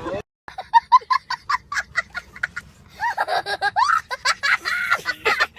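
A person laughing: a quick run of short, evenly repeated 'ha' bursts for about two seconds, then a longer stretch of laughter.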